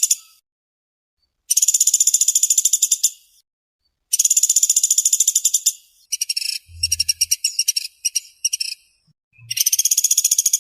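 Pelatuk beras (pelatuk sampit) woodpecker calling in fast, tightly packed rattling trills, each lasting one to two seconds with short pauses between, the 'speed rapat' call. Around the middle one trill breaks up into several shorter stuttering bursts.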